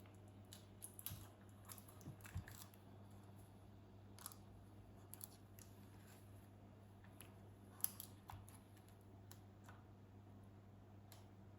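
Near silence with a faint steady low hum, broken by scattered light clicks and taps of voltmeter test probes being placed on contacts to measure a supply voltage.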